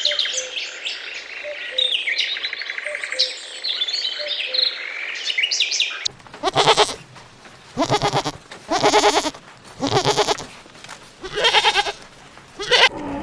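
Small birds chirping for about six seconds, then a goat bleating six times in short, wavering calls about a second apart.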